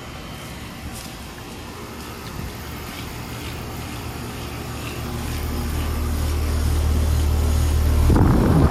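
Outdoor heat pump unit running, its compressor and condenser fan giving a steady low hum that grows louder toward the end. A short burst of noise near the end.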